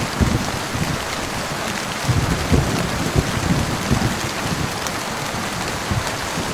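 Steady heavy rain, with a low, uneven rumble of thunder rolling in about two seconds in and fading by the middle.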